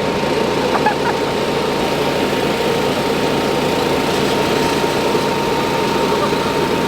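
Pickup truck engines idling steadily, with the murmur of people talking mixed in.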